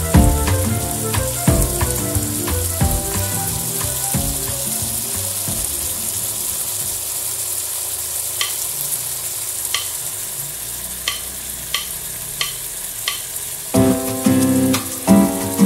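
Corned beef with tomato, onion and garlic sizzling steadily in a nonstick wok, a few light ticks standing out in the middle. Background music plays over the first few seconds and comes back near the end.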